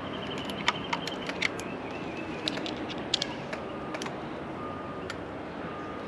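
Irregular light clicks and taps of small parts and hand tools being handled during work on an outboard engine's fuel system, over a steady background hiss.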